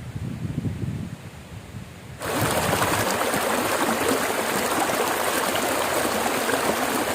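Low wind rumble, then about two seconds in a sudden switch to a forest river's water rushing, a loud steady hiss that cuts off right at the end.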